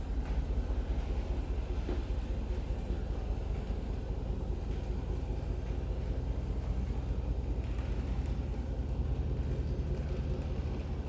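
A 2022 Range Rover Sport SVR's 5.0-litre supercharged V8 idling steadily after a cold start.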